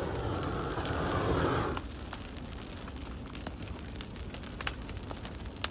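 A steady noise that cuts off abruptly about two seconds in, followed by a burning pile of pine trees crackling, with scattered sharp pops.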